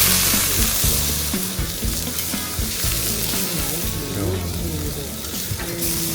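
Marinated pork neck sizzling on a grill over hardwood charcoal. The hiss is loudest at the start and swells again near the end.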